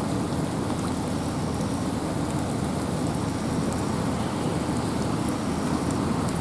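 Steady rain falling in a forest, with a deep, even rush of wind and a scatter of faint drop ticks.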